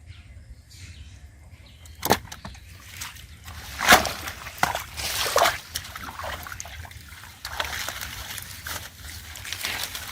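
Hands sloshing and splashing in shallow river water while fishing by hand. The first two seconds are quiet, a sharp splash comes about two seconds in, and the biggest splashes come around four to five seconds in. Irregular sloshing and trickling follow.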